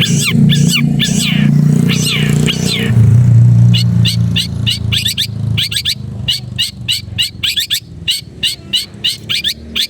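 Long-tailed shrike calling: a run of quick falling sweeping notes, then from about four seconds in a fast series of short, sharp chattering notes. A steady low rumble runs underneath.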